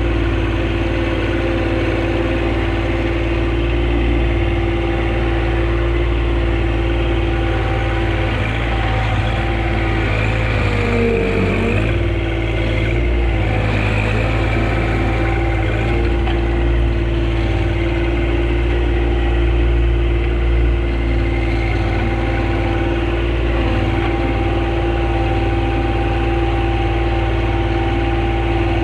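John Deere compact tractor engine running steadily at working speed, its pitch briefly dipping and wavering about eleven seconds in.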